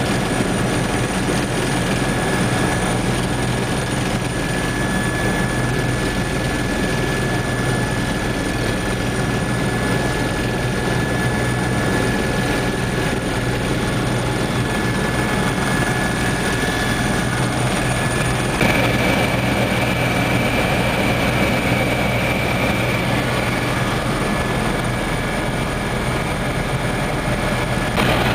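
Helicopter in flight: a steady, loud drone of turbine and rotor noise with a thin steady whine over it. About two-thirds of the way through the sound shifts and a higher whine comes in.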